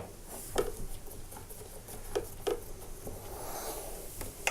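Torx screwdriver undoing the screws that hold the tumble dryer's door hinge: a few light clicks and a short scraping rub about three seconds in.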